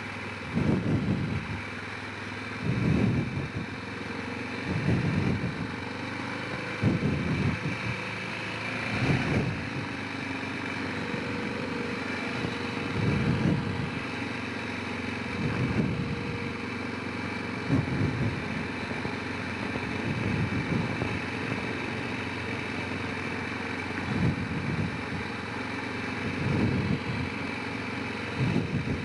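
Honda Rincon 650 ATV's single-cylinder four-stroke engine running while riding, its note surging louder every couple of seconds.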